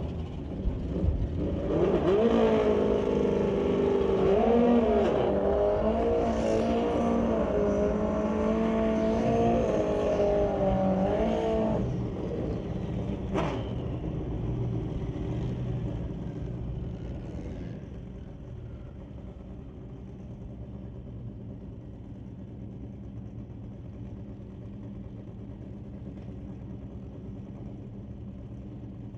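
Drag-racing motorcycle engine held at high revs for about ten seconds, its pitch wavering up and down, then dropping back. A single sharp pop follows, then a lower, quieter steady engine rumble.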